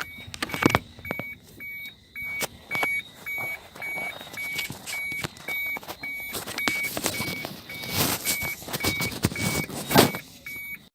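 An electronic beeper sounding steadily, short high beeps about twice a second, with scattered clicks and knocks over it.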